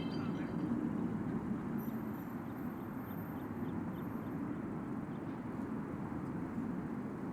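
Steady low rumbling background noise, with faint light ticks at about three a second through the middle.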